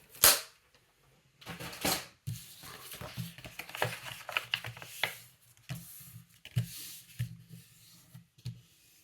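A scored sheet of paper being folded and handled: crisp paper rustling and crinkling, with a sharp, loud crackle about a quarter second in and another near two seconds.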